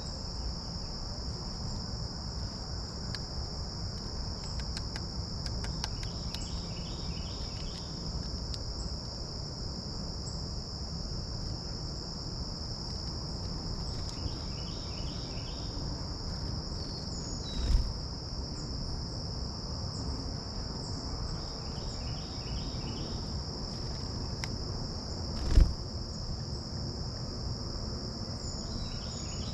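A steady, high insect chorus of crickets or similar insects, with a bird repeating a short series of notes every several seconds. Two dull thumps stand out, about two-thirds of the way in and again near the end.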